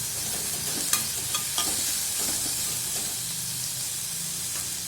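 Chopped onion and tomato sizzling steadily as they fry in oil in a kadai, with a few light clicks of the stirring utensil against the pan in the first couple of seconds.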